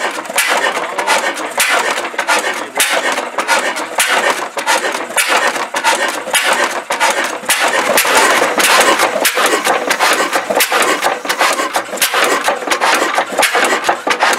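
Old English-built machine from about 1909 running flat out, a dense, fast clatter of rattling and clicking parts.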